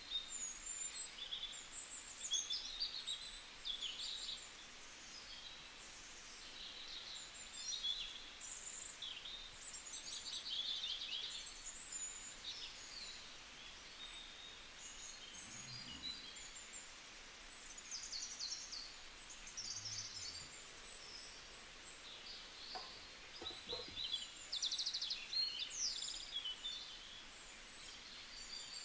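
Songbirds chirping and trilling, many short overlapping calls, over a steady background hiss.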